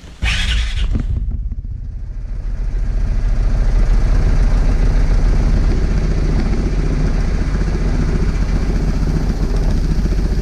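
2023 Vespa GTS 300 HPE2's single-cylinder four-stroke engine started with a brief starter whir, then idling steadily. It gets louder over the first few seconds, then holds steady. It is run briefly on fresh oil to circulate it and build oil pressure.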